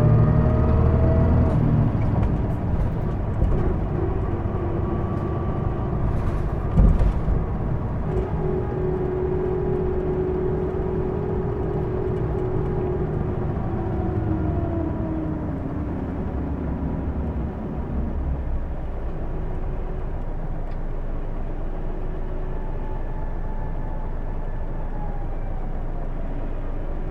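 Hino Blue Ribbon II city bus heard from inside the cabin, its engine and drivetrain running under way with whining tones that rise and fall with speed; the bus is known for an unusual running noise. A single knock comes about seven seconds in, and after about eighteen seconds the running settles lower and steadier.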